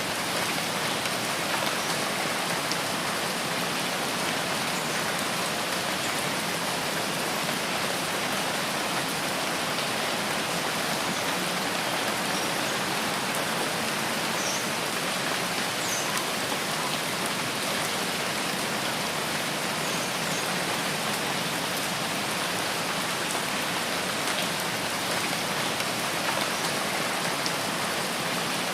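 Steady rain falling in a forest, an even hiss of drops with no let-up.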